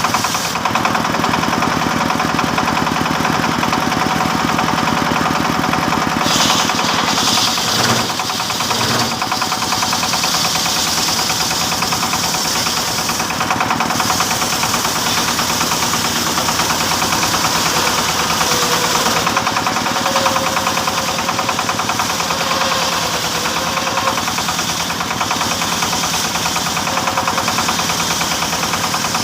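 Engine-driven sawmill running steadily while sawing teak, the engine giving a fast, even knocking beat. A brighter hiss rises over it about six seconds in, and again around twenty seconds in.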